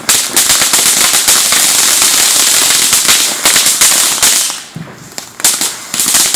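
Consumer fireworks going off as a rapid, dense stream of sharp crackling pops. The pops break off briefly about five seconds in, then start again.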